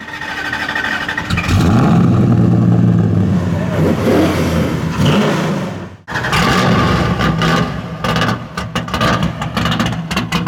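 Custom Plymouth Road Runner's V8 engine running loudly through its exhaust. The sound drops out sharply for a moment about six seconds in, then returns.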